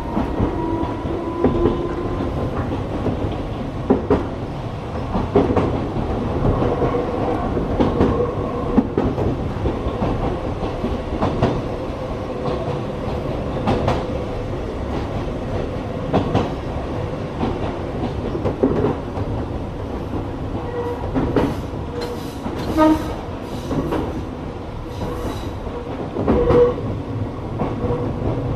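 Gakunan Railway electric train running, heard from inside: a steady motor and gear hum that rises in pitch over the first couple of seconds, with wheels clacking over rail joints every few seconds. A flurry of sharper clicks and clacks comes in past the middle.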